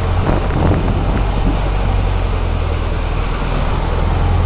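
Waterfall: a steady rush of falling water with a heavy low rumble.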